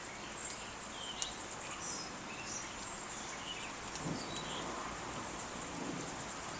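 Outdoor ambience: birds chirping in short, scattered notes over a constant high insect drone and a steady hiss.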